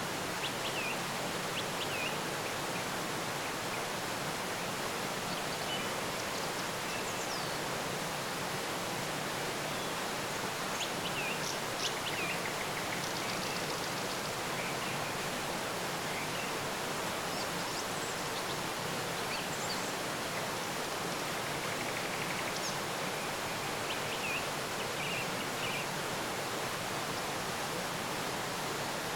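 Steady rushing of flowing water, with brief bird chirps scattered throughout.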